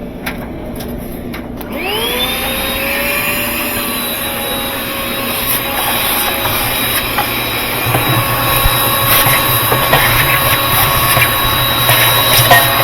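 Vacuum motor switched on about two seconds in, its whine rising as it spins up and then running steadily, sucking dirt out of the washing machine. From about the middle it grows louder, with scattered clicks and crackles as debris rattles through the hose.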